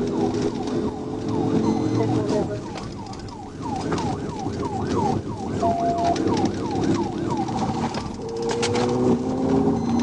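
Police car siren in a fast yelp, a falling tone repeating about three to four times a second, switching near the end to a faster rapid pulsing tone, over the pursuing patrol car's engine and road noise at high speed.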